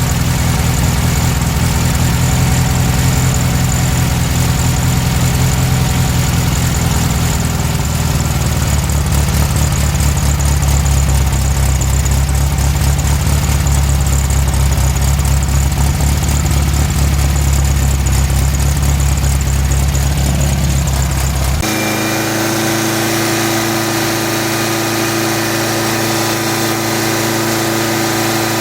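Volkswagen Beetle's air-cooled flat-four engine running steadily on a freshly fitted Magnaspark II electronic ignition. Its note shifts about a third of the way in, and the sound changes abruptly near the end.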